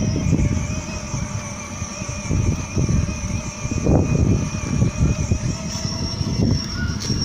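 Motorbike running, an uneven low rumble with faint steady whining tones above it.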